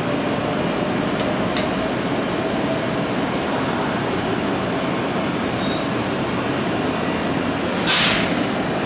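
Electric commuter train standing at the platform, its onboard equipment running steadily, with a short burst of hissing air about eight seconds in.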